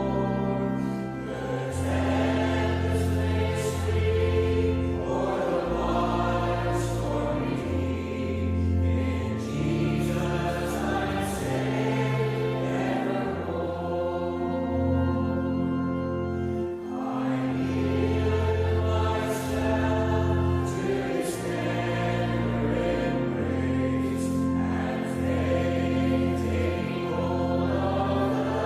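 Choral music: a choir singing slow held chords over a low bass accompaniment, the chords changing every second or two.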